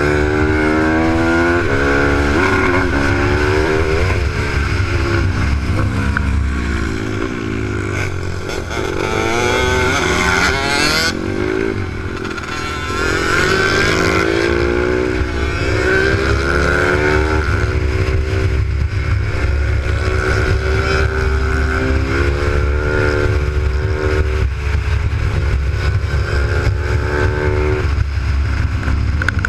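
Pit bike's Z155 single-cylinder engine heard from onboard, revving up and dropping back again and again as the bike accelerates between corners and backs off into them, with a steady low rumble of wind and road underneath.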